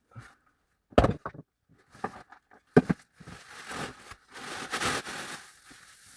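Two loud, sharp knocks or snaps, about two seconds apart, among smaller clicks, then a rustling, scraping noise for a couple of seconds.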